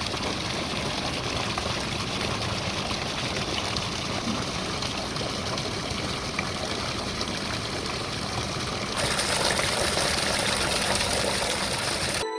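Flowing water rushing steadily, a dense even hiss that grows louder and brighter about nine seconds in.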